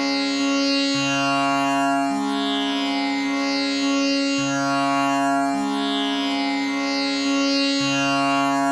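Tanpura drone tuned to C sharp: its strings are plucked one after another in a slow repeating cycle, each note ringing on into the next as one continuous hum.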